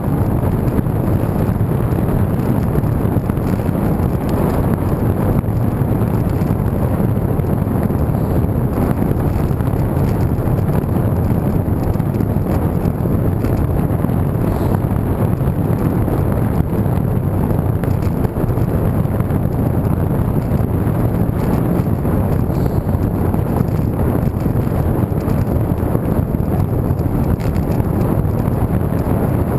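Wind buffeting the camera microphone while riding a road bike, a steady loud rumble, mixed with the bike's tyre and road noise.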